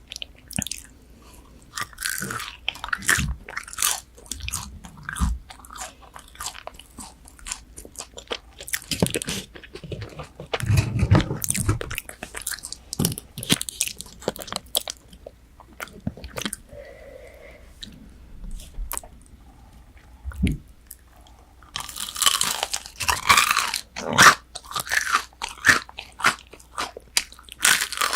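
Close-miked eating of crispy McDonald's chicken nuggets: crunchy bites and chewing, with a run of loud crunching near the end.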